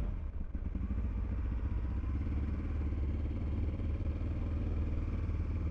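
Motorcycle engine running steadily, a low, even rumble heard from the bike's onboard camera.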